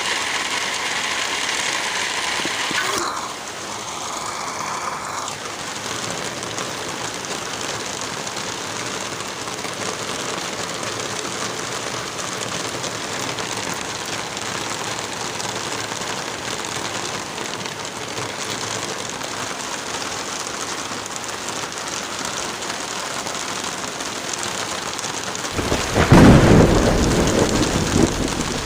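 Steady rain with a fireplace crackling underneath, and a loud roll of thunder rumbling in near the end.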